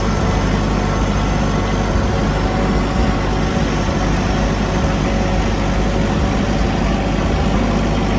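A vehicle engine running steadily with an even low drone, its speed unchanged throughout.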